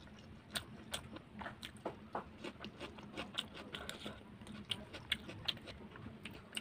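A person chewing a mouthful of rice and pork curry close to the microphone: many sharp, irregular mouth clicks and smacks.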